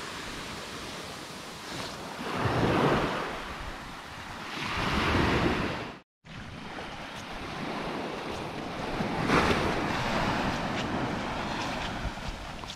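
Small waves washing onto a sandy beach, swelling and falling back every few seconds, with wind on the microphone. The sound cuts out completely for a moment about halfway.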